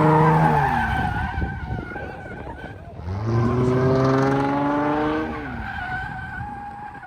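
Car doing a burnout: engine held at high revs with tyres squealing, the revs dropping about half a second in, climbing again at about three seconds and falling away near six seconds while the tyre squeal carries on.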